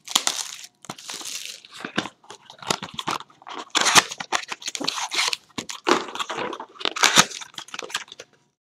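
A sealed trading-card box being torn open by hand: irregular tearing, rustling and crinkling of its wrapping and cardboard, with a few sharper crackles. It stops abruptly shortly before the end.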